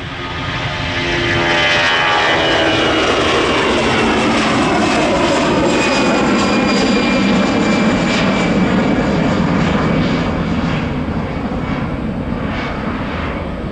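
Jet airliner passing close at high power on its takeoff run. The engine noise swells, its whine drops in pitch as the aircraft goes by, and the roar then fades away near the end.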